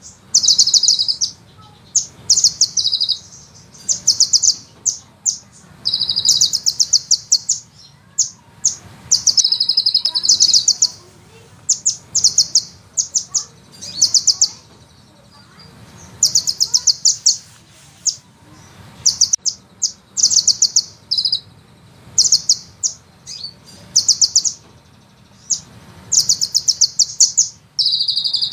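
Sunbird singing in rapid, high-pitched rolling trills. The trills come in bursts of about half a second to a second and a half, with short pauses between them.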